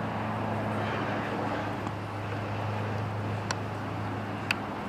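Steady outdoor background noise with a low, even hum, and two faint clicks near the end.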